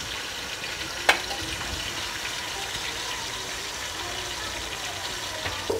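Onions, green chillies and tomato pieces frying in oil in a steel pot: a steady sizzle as the tomato cooks down, with one sharp click about a second in.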